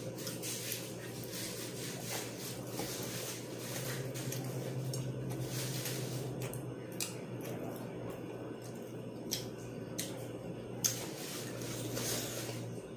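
Close-miked eating of a fried chicken wing: soft chewing and mouth sounds, with a few sharp clicks or crunches in the second half, over a steady low hum.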